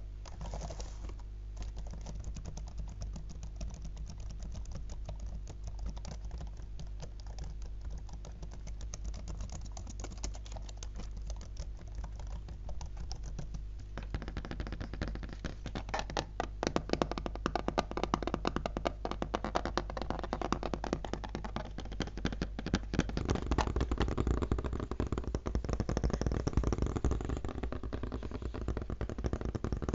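Fingers tapping fast on a laptop, a dense run of small plastic clicks. The tapping gets louder and crisper about halfway through, and deeper and fuller in the last few seconds.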